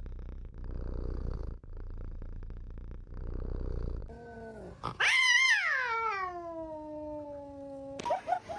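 Domestic cat: a low rumble for about four seconds, then a short falling cry, then a loud, drawn-out meow that slides down in pitch for about three seconds.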